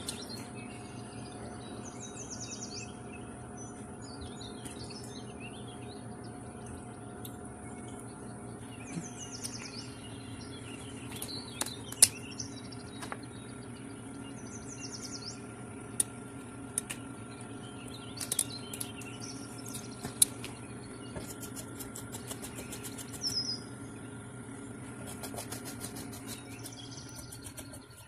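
A steady low mechanical hum, with small birds chirping now and then. Over it come a few sharp knocks and scraping clicks from fish being handled on a cutting board, with fast runs of ticks in the last few seconds.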